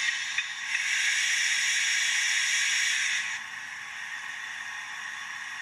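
Steam hiss played through the small speaker of a DCC sound-fitted Accurascale J68 model steam tank locomotive. It is a loud, even hiss that drops suddenly to a quieter steady background hiss about three and a half seconds in, with a few light clicks near the start.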